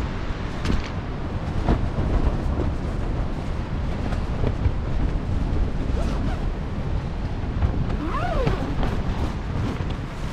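Strong wind and heavy rain, the gusts buffeting the microphone in a steady, loud rumble. About eight seconds in there is a brief rising-then-falling whistling tone.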